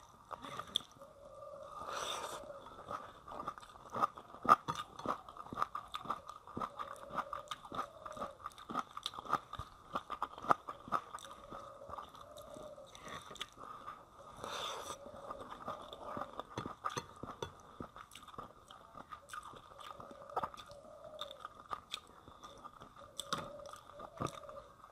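Close-miked chewing and crunching, with many short wet clicks and smacks, as rice and fish curry are eaten by hand and fingers mix rice on a plate.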